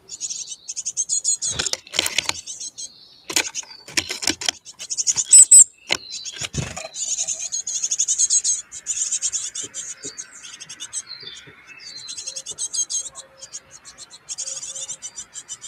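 Chickadees chirping: rapid, high-pitched calls in bursts with short gaps, with several sharp knocks between about two and seven seconds in.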